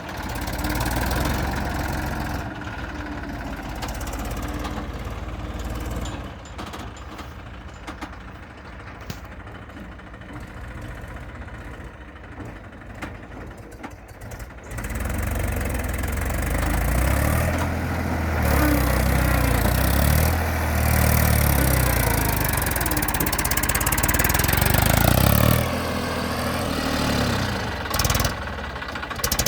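Eicher tractor's diesel engine running. It is quieter for several seconds in the first half, then louder, and the engine speed rises and falls near the end.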